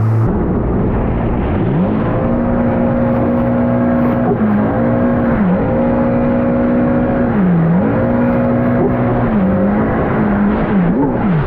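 Stand-up jet ski engine running hard: the pitch climbs about two seconds in, then holds high with several brief dips as the throttle is eased and reopened, over a steady rushing noise.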